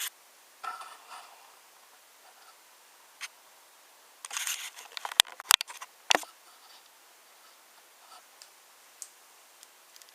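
Wooden toy trains and wooden track clicking and clacking. There are a few scattered light clicks, then a busier clatter from about four to six seconds in that holds several sharp clacks.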